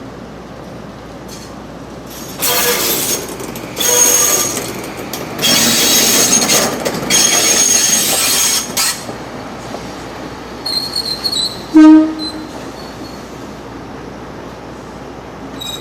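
Freight wagons' wheels squealing in several loud bursts as a limestone freight train moves slowly through the yard. About twelve seconds in, a single very short horn blast.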